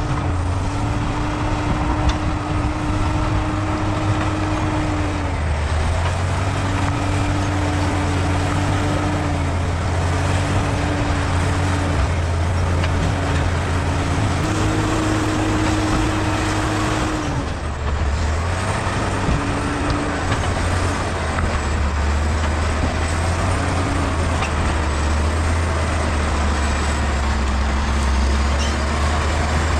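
Bulldozer's diesel engine running steadily with a low drone, and a higher tone over it that comes and goes every few seconds.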